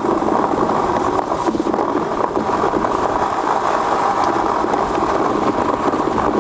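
Runners of a home-built aluminium ice yacht rumbling steadily over lake ice while under sail.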